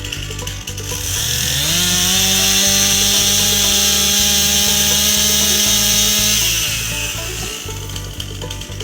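Stihl MS261 C two-stroke chainsaw revving up about a second in, holding full throttle for about five seconds as it cuts through wood, then dropping back, over background music.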